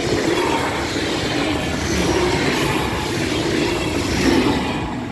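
Electric multiple-unit passenger train passing close by: a steady rush of wheel and rail noise with a low hum, swelling at the start and dropping away near the end.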